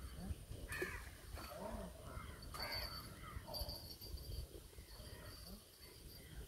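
Birds calling: a series of short harsh calls, most of them in the first four seconds.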